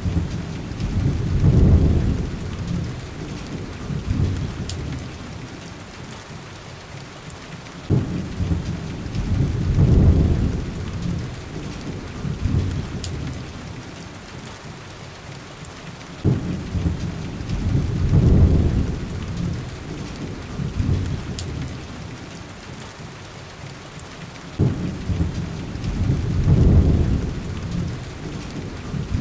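Steady heavy rain on a window with deep thunder rumbling about every eight seconds, four times. Each rumble starts sharply and swells for a couple of seconds before fading back into the rain. A few faint crackles from a fireplace sound now and then.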